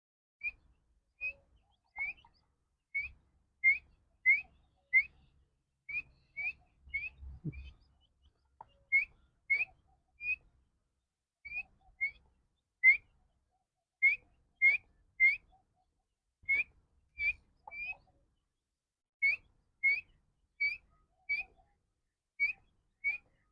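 Francolin (teetar) chick peeping: a long series of short, rising whistled peeps, one or two a second, with a few brief pauses.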